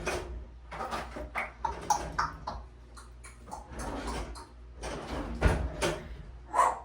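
African grey parrot making a string of short, irregularly spaced clicks and chattering sounds.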